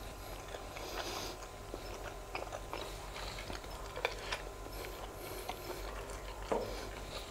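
A person chewing a mouthful of grilled sausage close to the microphone, with scattered mouth clicks and smacks; a louder click comes about four seconds in and another about six and a half seconds in.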